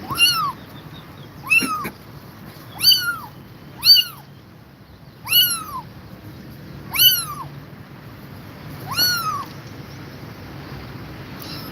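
Kitten meowing: seven high-pitched meows, each rising then falling in pitch, one to two seconds apart.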